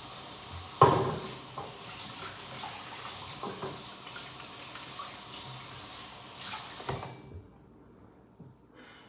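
Water running steadily from a tap, with a sharp knock about a second in; the water stops about seven seconds in.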